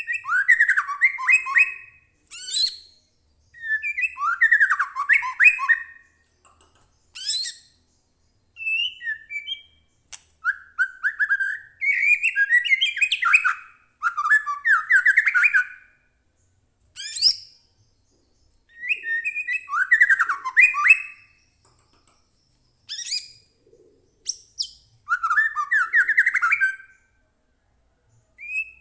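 White-rumped shama singing: a string of varied song phrases of one to two seconds each, separated by short pauses, mixing high quick notes with denser lower runs.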